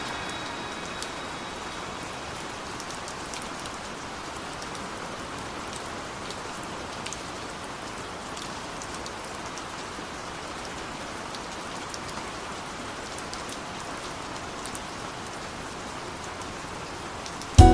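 Steady rain ambience: an even hiss of rain with faint, scattered ticks of drops.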